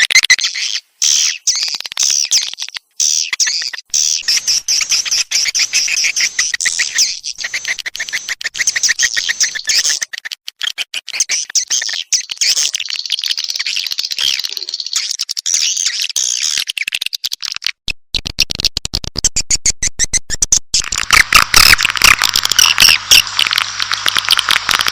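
Recorded calls of edible-nest swiftlets, a dense, rapid chittering twitter of many birds, played as a swiftlet-house lure (calling) sound. A fuller, louder layer of twittering joins near the end.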